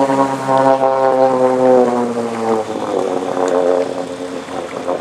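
Engine of an amphibious Subaru car-boat running under load on the water, a steady horn-like drone. About two and a half seconds in the note drops in pitch and softens, then wavers.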